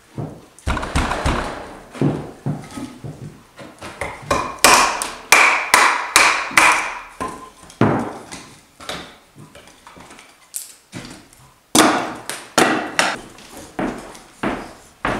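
A knife blade shaving curls down a stick of kindling held on a wooden chopping block, carving a feather stick: a quick run of sharp scraping strokes against the wood, one or two a second.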